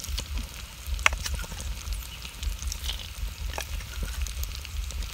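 Stir-fried frogs, herbs and chillies sizzling in a wok, with scattered sharp clicks and scrapes as roasted peanuts are tipped in and the ladle and spatula work the pan. A low rumble runs underneath.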